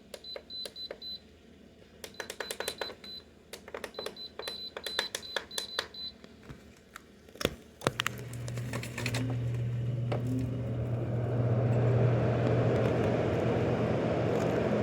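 LG 6000 BTU window air conditioner's control panel clicking and beeping rapidly for about six seconds. About eight seconds in, the unit starts with a steady low hum and rising fan airflow noise, while the compressor is held off by its start-up delay.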